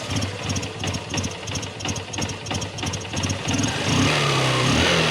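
Honda Shine SP 125's single-cylinder engine idling with an even beat, running a little louder and steadier about four seconds in. It runs without the engine knock that a tensioner fix has cured.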